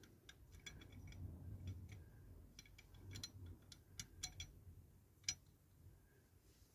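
Faint, irregular light clicks and taps of small parts being handled and fitted into a diecast model car body, with soft handling rustle underneath.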